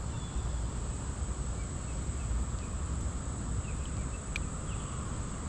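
Steady high-pitched drone of insects over a low rumble, with a few faint short chirps and a single sharp click about four seconds in.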